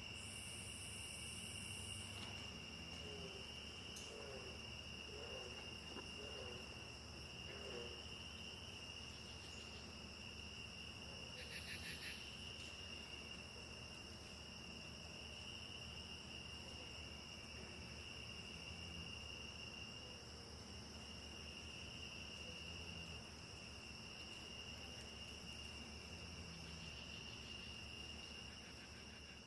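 Insect chorus trilling steadily at two high pitches over a faint even hiss, with a few soft low chirps between about three and eight seconds in and a brief buzzy rasp near twelve seconds.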